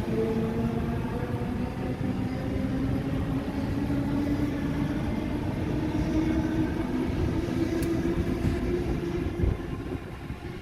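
An electric passenger train pulling away: the traction motors whine in several tones that rise slowly as it gathers speed, over the rumble of the wheels on the track. The sound eases off near the end.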